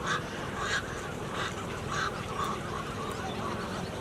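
A flock of birds calling, with short calls repeating about every two-thirds of a second over steady background noise.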